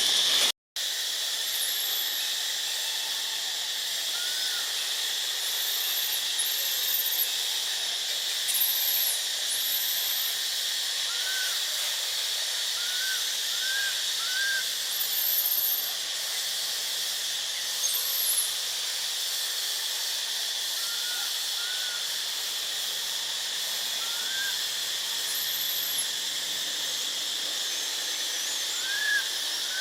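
Steady insect drone, with scattered short, high chirps over it. The sound drops out briefly about half a second in.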